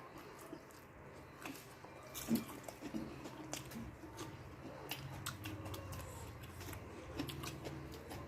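A person chewing and biting food close to the microphone, with scattered crunches and small wet clicks.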